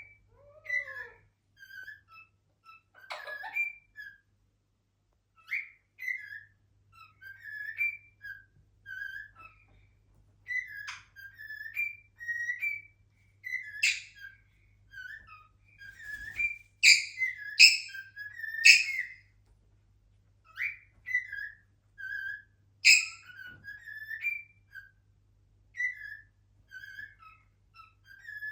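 Pet cockatiel whistling its song: a long string of short, pitched whistled notes and glides in short phrases. Several sharper, louder calls cut in around the middle.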